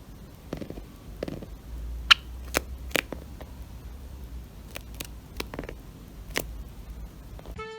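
Java sparrow making sharp, irregular taps on tatami mats, about nine clicks spread over several seconds with a short gap in the middle.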